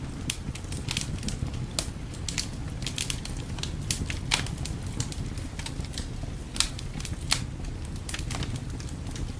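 Wood fire crackling, with frequent irregular sharp pops, over a low steady rumble.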